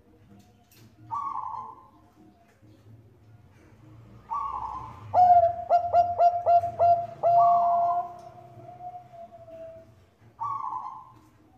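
Zebra dove (Thai-bred 'Bangkok' perkutut) cooing. A short falling note comes every few seconds, and in the middle a quick run of about six clipped notes leads into one long drawn-out coo that slowly falls in pitch.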